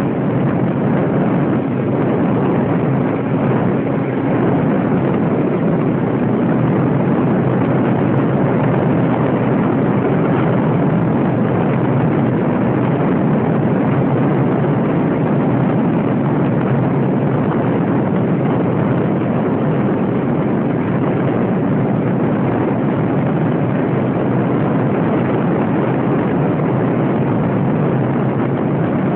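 Radio-controlled model airplane in flight, its motor running steadily as a loud, even noise with no clear pitch.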